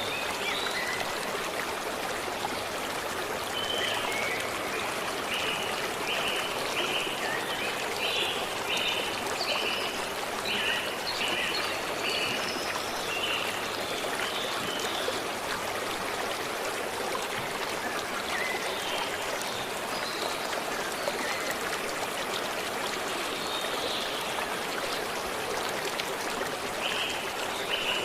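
A stream running steadily, with a bird repeating a series of short, evenly spaced notes from about four seconds in until about fourteen seconds, and again near the end.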